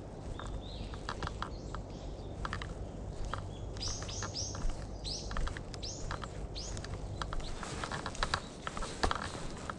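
Footsteps crunching along a woodland path, with small birds calling. A quick run of short, high chirps comes about four seconds in.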